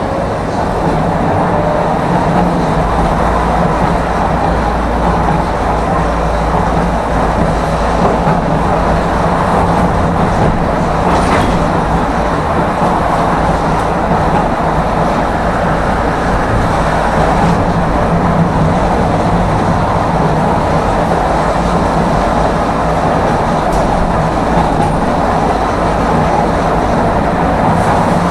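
A tram running along its rails between stops: a steady, continuous rumble and rolling noise with a low hum underneath.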